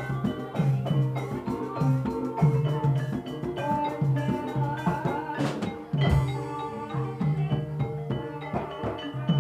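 Javanese gamelan-style accompaniment for an ebeg trance dance: interlocking mallet-struck tuned percussion over a steady pattern of hand-drum strokes, with a louder stroke about six seconds in.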